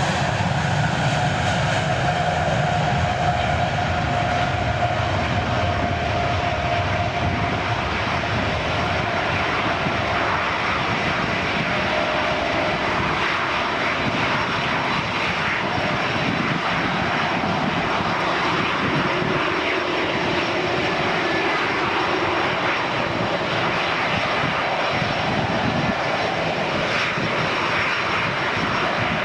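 Twin IAE V2500 turbofan engines of a McDonnell Douglas MD-90 running at takeoff power as the jet departs: a loud, steady jet noise. A faint steady whine in the first several seconds fades out.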